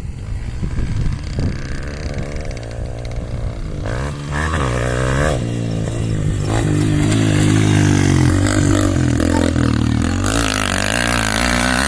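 Honda CRF250F single-cylinder four-stroke dirt-bike engine running. It is a low, uneven rumble at first, then from about four seconds in it revs, its pitch rising and falling, and grows louder toward the middle.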